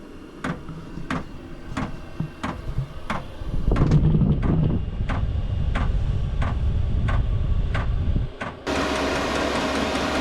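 VEVOR diesel air heater's fuel dosing pump ticking steadily, about one and a half clicks a second, while the heater starts up. From about four seconds in, a low rumble runs under the ticks. Near the end a steady, louder rushing hum takes over abruptly.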